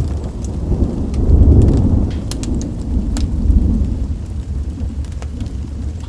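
Deep rumble of thunder that swells about a second in and slowly fades, over rain, with sparse sharp crackles and pops from a wood fire.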